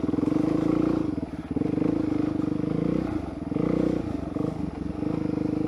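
Suzuki DRZ400SM's single-cylinder four-stroke engine running as the bike is ridden, the throttle easing off and coming back on a few times.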